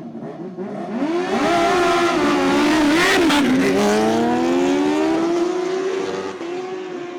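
Two superbikes launched side by side in a drag race, engines at full throttle with pitch climbing through the gears. They grow loud about a second in, pass loudest near three seconds with a sharp drop in pitch, then pull away still revving and fade.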